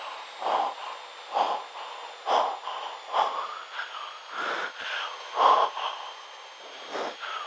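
A person breathing heavily and audibly into a headset microphone, in rough puffs about once a second, heard over an aircraft intercom with a faint steady electronic whine.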